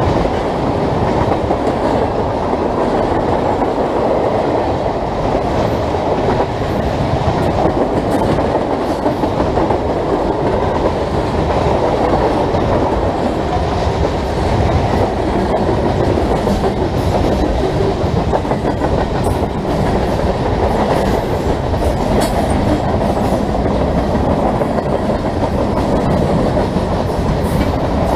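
A freight train of tank cars and boxcars rolling past close by: a loud, steady rumble of steel wheels on the rails with continual clicking as the wheels cross rail joints.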